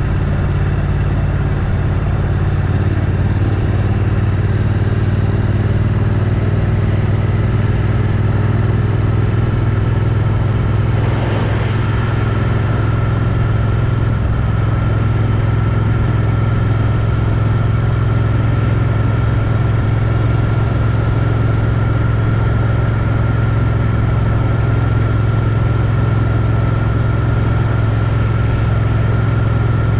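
Triumph Street Twin's parallel-twin engine running steadily at a near-constant cruising speed through its stock exhaust, with wind and road noise. A brief swell of hiss comes about eleven seconds in.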